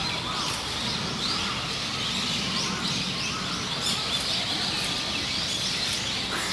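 Small birds chirping, many short high chirps one after another, over a steady low background rumble.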